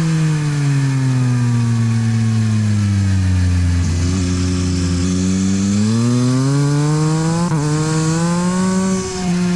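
Yamaha MT-09 SP's three-cylinder engine through a LeoVince aftermarket exhaust, ridden on track. The revs fall away for about three seconds as the rider rolls off, stay low briefly, then climb hard from about six seconds in. The rising note breaks twice near the end, at the upshifts.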